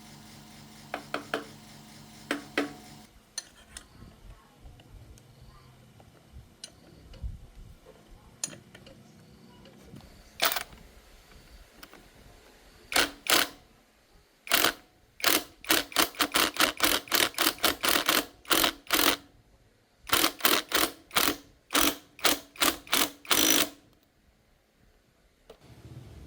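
Rapid runs of sharp knocks or taps, about three to four a second, coming in two long bursts in the second half with a short pause between them. A steady machine hum runs for the first few seconds and then stops.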